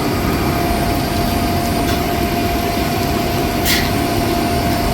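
Hydraulic pump running steadily while filling an aircraft's hydraulic system from a service cart: an even mechanical hum with a constant whine over it.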